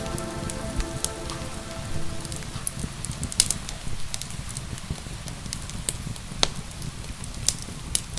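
Crackling fireplace fire with scattered sharp pops over a low rumble and rain. A soft held music chord fades out over the first two seconds or so.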